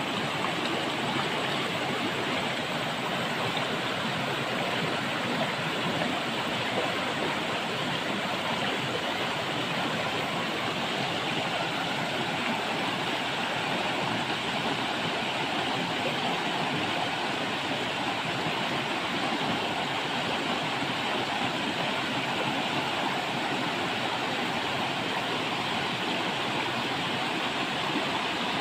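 Clear river water rushing steadily over stones, a constant even rush of flowing water.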